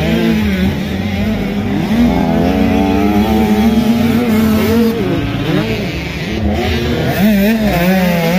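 Motocross bike engines revving on a dirt track, several overlapping engine notes rising and falling with the throttle.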